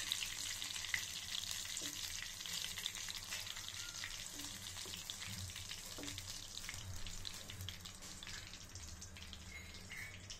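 Battered prawns deep-frying in hot oil in a kadai: a steady sizzle with many scattered crackles that gradually dies down.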